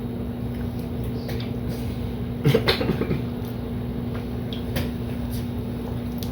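A steady low hum with a few light clicks and knocks scattered through it, and a brief murmur about two and a half seconds in.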